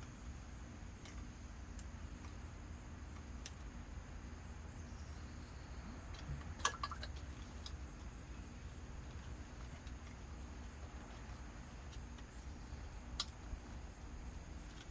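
A few sharp, faint clicks and taps of a metal pick working at the plastic clips of ignition coil connectors to pry them loose, the loudest about halfway through, over a steady low hum.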